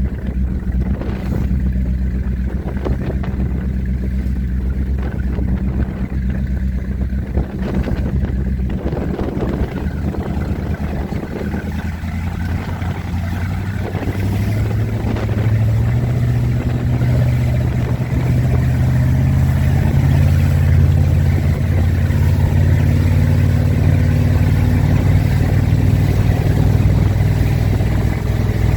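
Four Winns Liberator powerboat's engine running underway in rough water. About halfway through, its hum rises in pitch and gets louder as the boat picks up speed.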